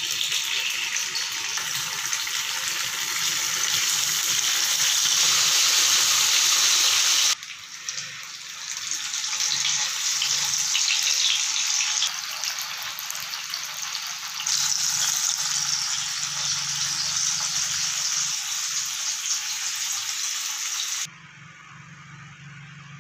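Firm tofu frying in hot oil in a nonstick pan: a steady, loud sizzling hiss, broken by sudden cuts, that drops to a much quieter background near the end.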